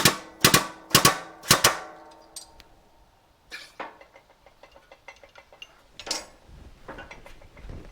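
Sharp metal-on-metal strikes with ringing, about two a second, stopping after about a second and a half, followed by scattered lighter clanks and clicks of metal parts being handled.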